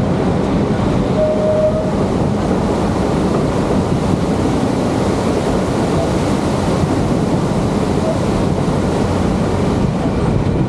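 Georgetown Loop Railroad narrow-gauge train rolling along the track with a steady rumble and rattle. A brief faint tone comes in about a second in.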